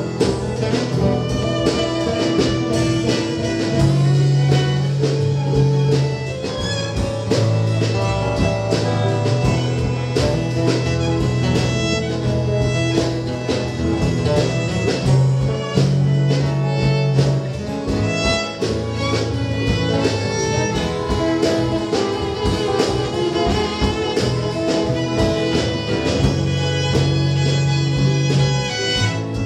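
A small acoustic band playing an instrumental passage, with fiddle and guitar over sustained bass notes and a steady strummed beat.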